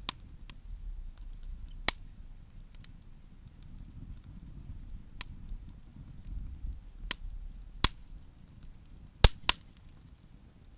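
Wood fire crackling: sharp, separate pops at uneven intervals, the loudest a close pair near the end, over a low steady rumble.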